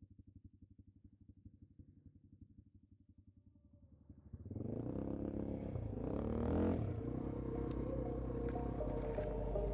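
Quad bike (ATV) engine idling quietly with an even low putter. About four seconds in it suddenly gets much louder, its pitch rising and falling as the engine is revved, then it runs on at a higher, steadier pitch.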